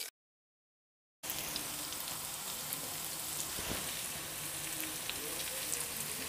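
Chicken livers sizzling steadily as they fry in oil over high heat. The sound drops out completely for about a second near the start, then the sizzle comes back.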